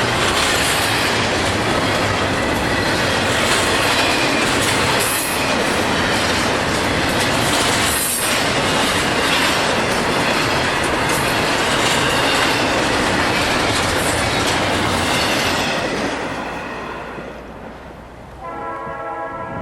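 Freight train cars rolling past close by, with steady wheel-on-rail noise that fades away near the end.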